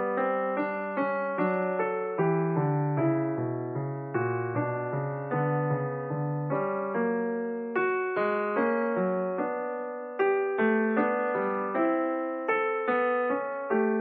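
Background piano music: struck notes that ring and fade, a melody over a lower accompaniment at an even, unhurried pace.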